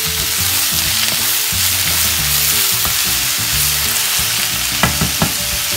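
Diced cabbage and onion sizzling in oil in a wok over high heat while a wooden spoon stirs them, with two sharp knocks near the end.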